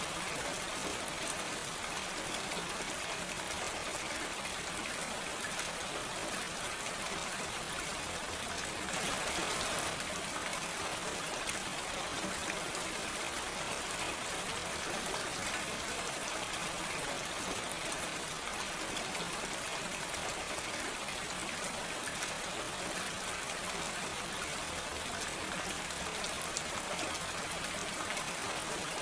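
Steady, gentle rain without thunder: an even hiss of falling rain with many fine drop patters, swelling slightly for a moment about nine seconds in.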